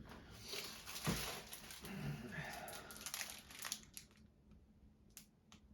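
Packaging rustling and crinkling as purchases are handled and unwrapped. A few short, light clicks come near the end.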